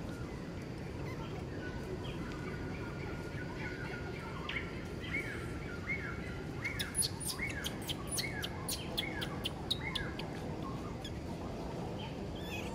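A bird calling a run of about a dozen short notes, each falling in pitch, roughly two a second, with a quick series of thin, high clicks over the middle of the run.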